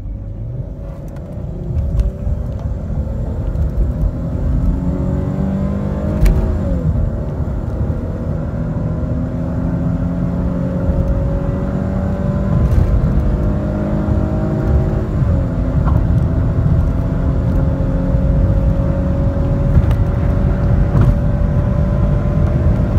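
2015 Dodge Charger's 3.6-litre V6 accelerating hard, heard from inside the cabin. Its pitch climbs steadily and drops at two upshifts of the automatic transmission, about six seconds in and again about fifteen seconds in, over a heavy low road rumble.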